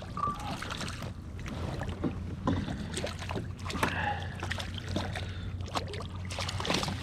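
Water sloshing against a kayak hull, with scattered small knocks and clicks from handling on board.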